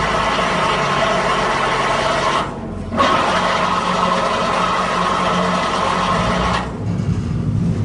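JZM drum concrete mixer running: a steady mechanical drone from the drive and the turning drum. It cuts out briefly about two and a half seconds in, then comes back, and near the end it turns to a deeper rumble.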